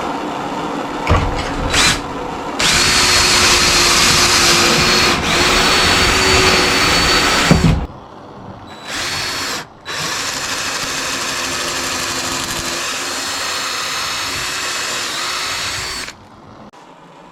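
Power drill boring pocket holes through a pocket-hole jig: one long run of about five seconds with a steady whine, a short burst, then a quieter run of about six seconds that stops near the end.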